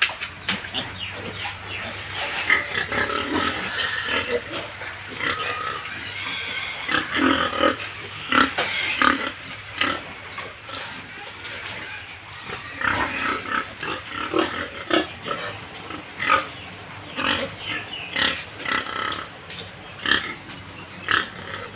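Pigs calling: many short, irregular calls that come and go throughout.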